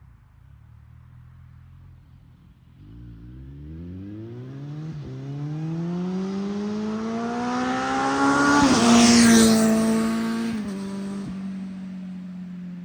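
Kawasaki Z900 inline-four with an SC-Project S1 GP slip-on exhaust, accelerating toward and past. The exhaust note rises in pitch and loudness, with a brief break a couple of seconds in. It is loudest about nine seconds in as the bike passes, then drops in pitch and holds a steady lower note as it moves away.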